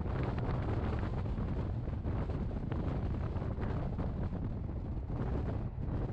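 Wind buffeting the microphone held out of a moving Rhaetian Railway train's window, over the steady running rumble of the train.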